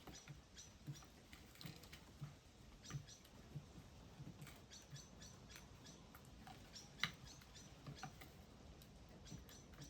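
Faint, short high chips and ticks from small birds, scattered irregularly, over soft low taps about twice a second; one sharper click about seven seconds in.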